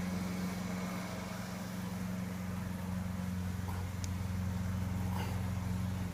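Steady low motor hum with an even pitch that cuts off abruptly at the very end, as the machine is switched off.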